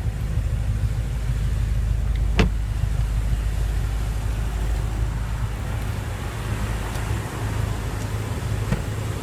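BMW M5 (F10) 4.4-litre twin-turbo V8 idling steadily with a low rumble. A single sharp click comes about two seconds in.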